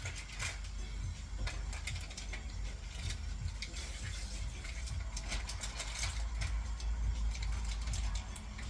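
Irregular sharp clicks and light knocks of kitchen work, over a steady low rumble.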